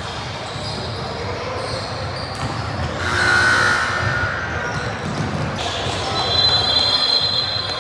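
Basketball game noise in an echoing gym: the ball bouncing on the court, high squeaks about three seconds in and near the end, and voices in the background.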